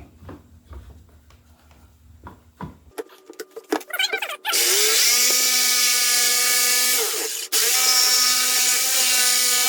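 A few light handling knocks, then a power tool starts about four and a half seconds in and runs with a steady whine as it works into the elm board for the crate's handle cutout. It stops for a moment and starts up again.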